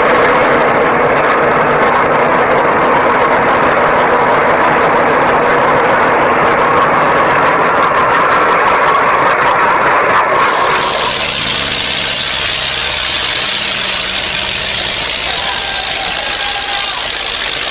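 Tractor engine running loudly and steadily. About ten seconds in, the sound shifts higher and hissier.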